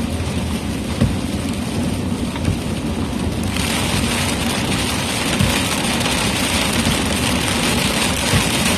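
Rain hitting a moving car, over a steady low road and engine rumble; the rain's hiss turns suddenly heavier about three and a half seconds in, as the car runs into heavier precipitation.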